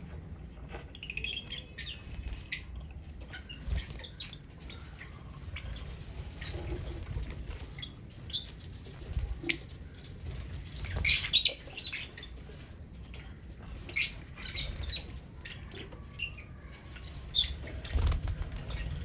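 Lovebirds moving about and handling nesting material: scattered rustles, scratches and clicks, with a few short high chirps and a louder burst of rustling or wing flutter about halfway through.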